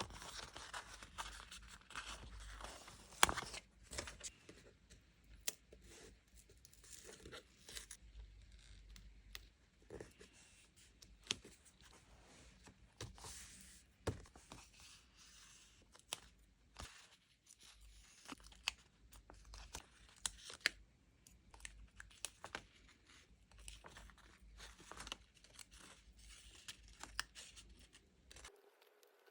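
Quiet close-up paper-craft handling sounds: stickers and paper being peeled and torn, with crinkling and many small sharp taps and clicks. The sounds stop abruptly near the end.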